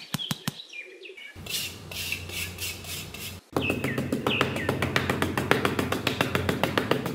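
Small birds chirping in short, falling calls over a steady low hum. After a brief cut, a louder fast, even ticking sets in and runs on with the hum beneath it.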